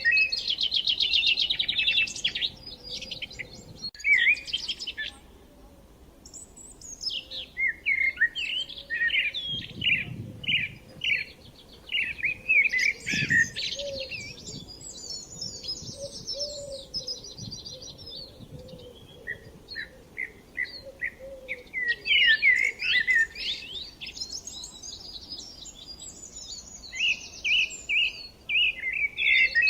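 Songbirds singing: overlapping phrases of quick, high chirps and trills, one phrase after another.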